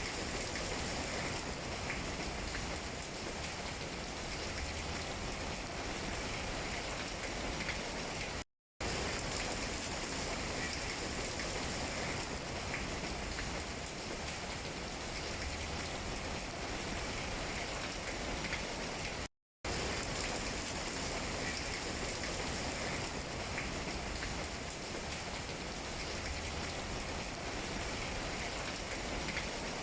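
Steady rain falling on tree leaves, an even hiss with small raindrop taps scattered through it. It cuts out to silence for a moment twice.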